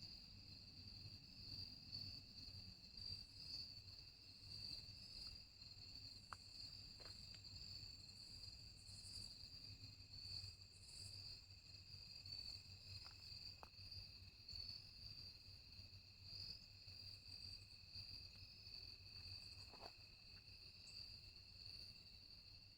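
Faint, steady chorus of crickets: a continuous high trill that never breaks, over a low rumble, with a few faint ticks.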